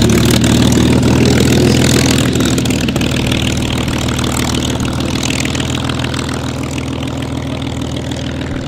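Piston engine of a propeller warbird running steadily at low power, a deep even drone that slowly fades.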